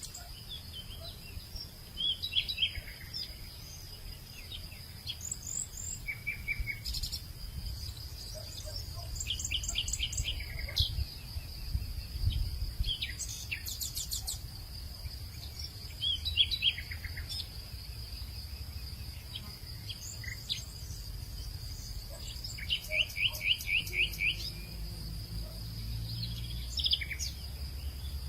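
Wild birds chirping and trilling in short, scattered phrases, including a quick run of repeated notes about two thirds of the way in, over a steady high-pitched insect drone and a low rumble.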